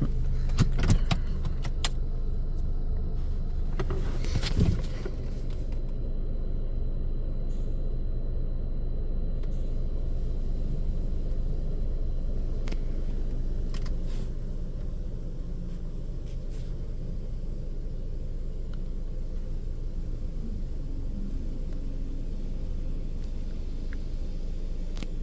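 Car engine idling, a steady low hum heard from inside the cabin, with a few clicks and a knock in the first five seconds and a slight drop in level about halfway through.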